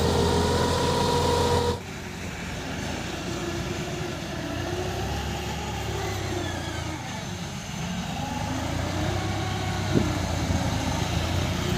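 A loud steady droning tone cuts off abruptly about two seconds in; after it a vehicle engine keeps running, its pitch slowly rising and falling. A single sharp click sounds near the end.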